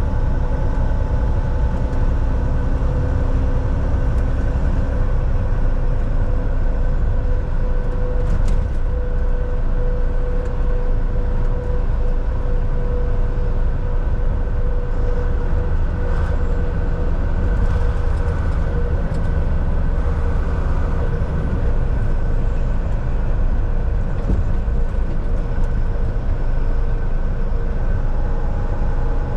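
Volvo VNL 760 semi truck cruising on the highway, heard from the cab: a steady engine drone and road rumble, with a faint steady hum above it.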